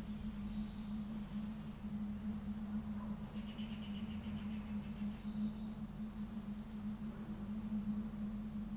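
Small birds giving a few short, high chirps and one brief trill about halfway through, over a steady low hum.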